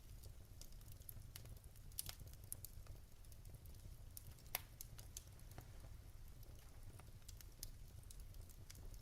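Fireplace fire crackling, with scattered sharp pops, the loudest about four and a half seconds in, over a low steady rumble.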